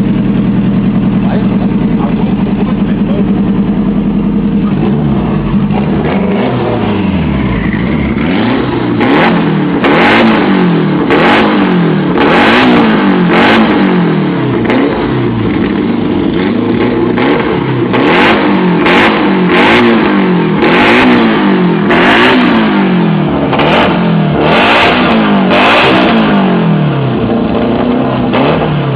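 Tuned VAZ-2110 car engine idling steadily, then revved up and down over and over, about once a second, from about five seconds in, with a harsh crackle at the top of many of the revs.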